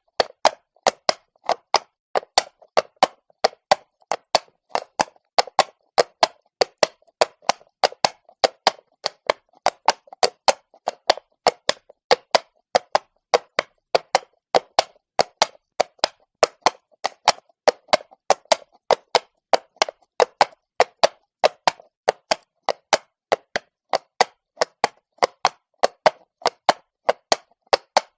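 A horse's hooves walking on cobblestones: sharp clops in a steady, even walking rhythm, about three a second.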